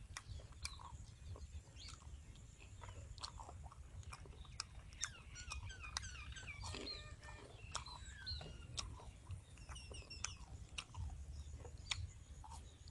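Crunching and chewing of crispy deep-fried, tempura-battered pig intestine, close to the mouth, with a stream of short crisp crackles. Birds chirp in the background about halfway through.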